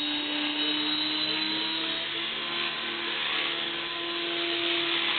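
600 ESP radio-controlled helicopter hovering: the rotor head and motor run with a steady whine whose pitch drifts slightly up and down as the head speed shifts.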